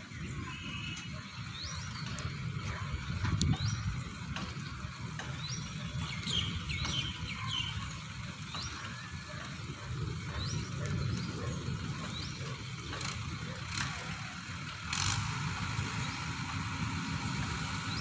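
Small birds chirping: repeated short, rising chirps over a steady outdoor hiss and low rumble. The hiss grows louder about three quarters of the way through.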